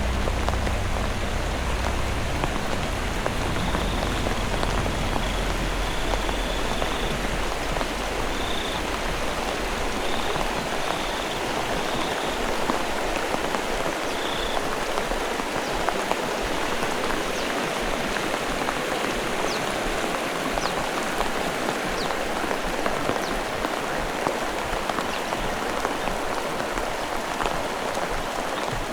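Heavy rain falling steadily, a dense even hiss of drops on surfaces. A low rumble fades out over the first few seconds.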